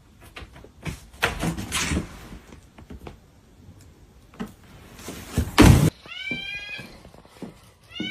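Knocks and clatters, then a loud thump a little past halfway. A cat meows about six seconds in, a drawn-out falling call, and starts another right at the end.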